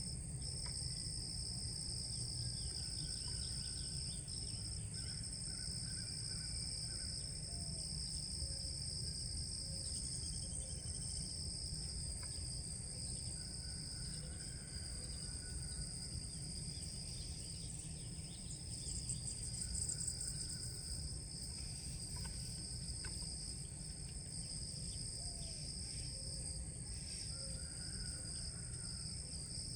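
Steady outdoor insect chorus, a continuous high shrill trilling at two pitches, over low rumble. A few short, faint bird calls come and go.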